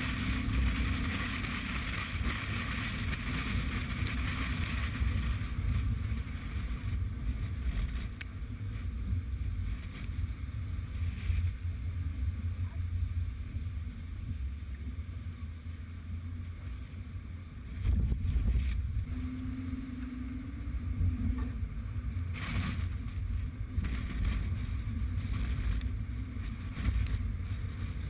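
Strong wind rumbling and buffeting the microphone, a steady deep roar with a louder surge about eighteen seconds in.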